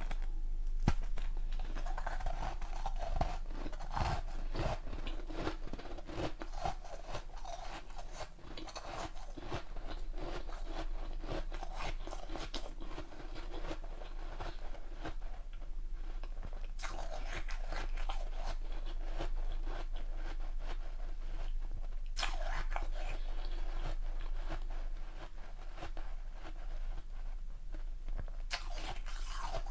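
A person biting and chewing ice from a large ice block close to the microphone: continuous crackling crunches, with a few sharper, louder bites standing out.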